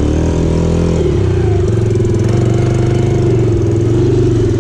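Dirt bike engine held at raised revs, dropping back to a steady idle about a second in.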